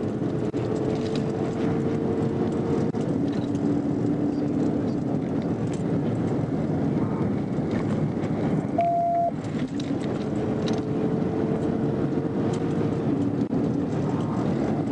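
Police car driving at high speed during a pursuit: steady engine, tyre and wind noise. A few faint steady tones change pitch in steps and repeat about every ten seconds.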